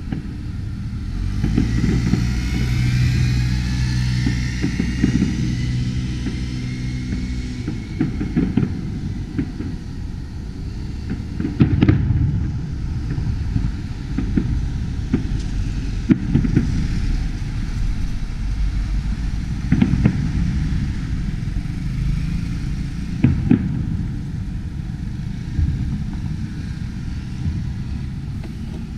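Distant fireworks display: sharp bangs every few seconds and thin rising whistles in the first several seconds, over a steady low rumble of street traffic.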